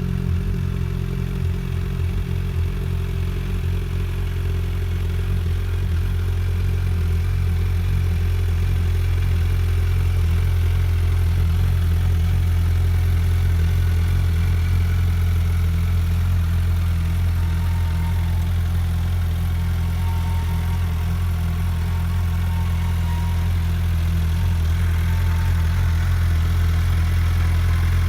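2022 Suzuki GSX1300R Hayabusa's inline-four engine idling steadily through its exhaust.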